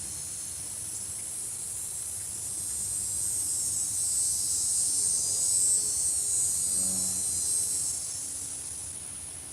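Outdoor insect chorus: a high, dense buzzing trill that swells about halfway through and then fades.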